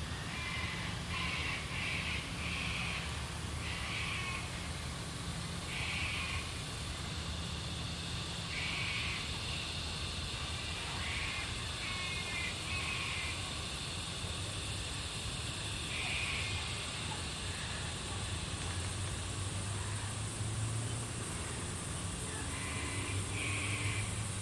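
Australian bush ambience at dusk: birds give short, harsh calls every second or two over a steady high insect drone and a low rumble.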